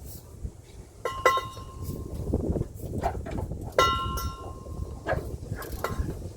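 Metal tools clanking against metal parts under the vehicle: two sharp ringing clinks about a second in and another near four seconds, with smaller clicks between. Wind buffets the microphone throughout.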